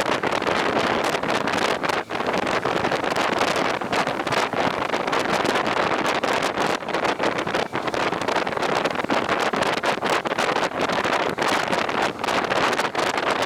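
Wind rushing over the microphone of a rider on a two-wheeler, a loud, steady roar of noise broken by many brief dips and gusts.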